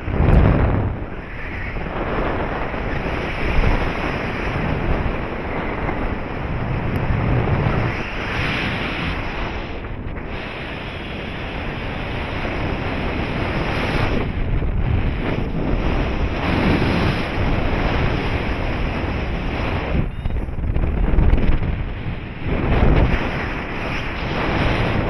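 Wind rushing over the microphone in flight, a steady noise with gusts that swell and fade every few seconds.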